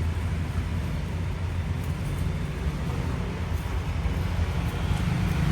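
Steady low rumble of motor traffic, engine and road noise without any distinct events.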